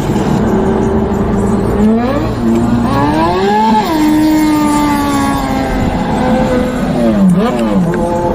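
Motorcycle engine under throttle on the road. Its note climbs for about two seconds, then falls slowly and steadily. Near the end it dips, jumps up briefly, and settles into a low steady tone, over a constant rush of noise.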